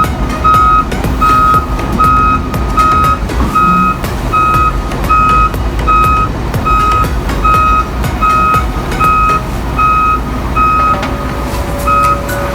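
Heavy-machinery backup alarm beeping steadily, about one beep every 0.8 seconds, over a low diesel engine rumble.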